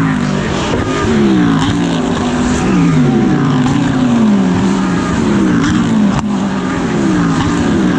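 GT3 race car engine at racing speed, its note repeatedly sliding down in pitch and jumping back up with each gear change.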